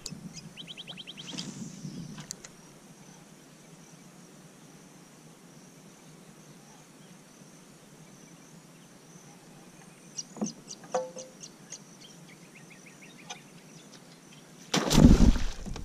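Small birds calling over quiet mangrove background: a quick trill near the start and a run of short chirps and a trill about ten seconds in. Near the end a sudden loud noise breaks in, which the angler at once puts down to a mangrove jack.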